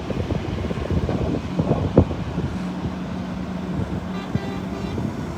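Heavy lorries' diesel engines running, with a steady low hum that sets in about a second and a half in and holds for several seconds, and a single sharp knock about two seconds in.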